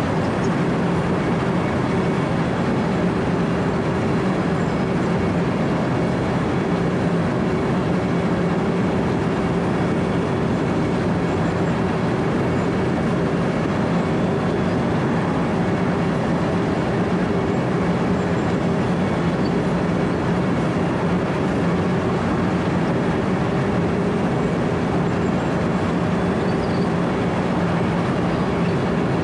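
Wirtgen W 120 CFi compact cold milling machine at work: its diesel engine drones steadily under load while the cutting drum grinds asphalt, in one unbroken, even din.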